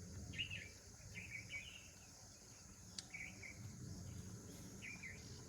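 Faint outdoor ambience: a steady high insect drone with several short bird chirps scattered through it, and one sharp click about three seconds in.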